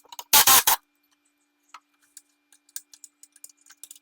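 Golf cart rear seat frame crashing down with a loud metallic clatter about a third of a second in, as its last bolt comes out, followed by scattered light clicks.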